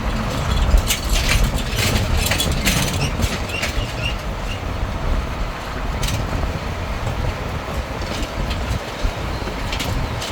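A tourist road train on the move, heard from aboard a wagon: a steady low rumble of the running gear, with bursts of rattling and clattering from the wagon, densest in the first few seconds.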